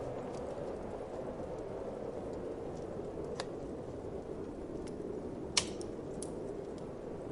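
Fire crackling in a fireplace, a sparse scatter of pops, the loudest about five and a half seconds in, over a steady low whoosh of wind.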